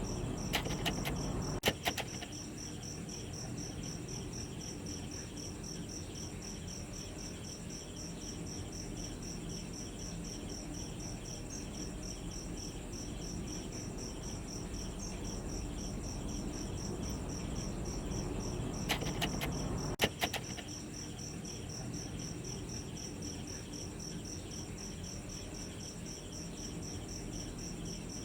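Crickets chirping in a steady, fast pulsing trill. A few sharp clicks come near the start and again about two-thirds of the way through.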